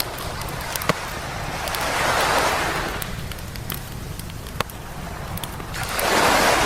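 Small waves breaking and washing up a beach, swelling twice about four seconds apart, with a wood campfire crackling and giving sharp pops, two of them louder than the rest.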